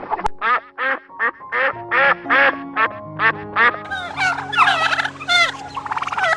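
Ducks quacking: a run of about ten short, evenly spaced quacks, then from about four seconds in a denser, overlapping chorus of quacks, over steady background music.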